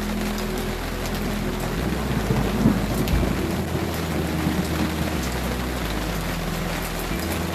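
Steady rain falling, with a low rumble of thunder that swells and fades between about two and three and a half seconds in.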